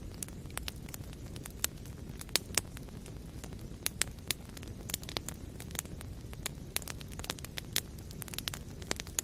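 Wood fire burning in a fireplace: a steady low rumble of flames with frequent irregular crackles and occasional sharper pops of burning wood.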